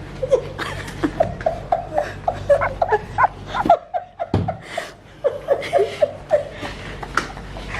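People laughing in quick, short bursts of giggles, breaking off briefly about four seconds in and then picking up again.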